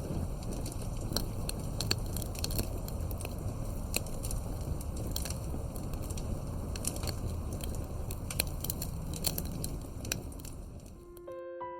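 Fireplace crackling: many sharp pops and snaps over a low steady rumble. It fades out near the end as soft electric piano notes begin.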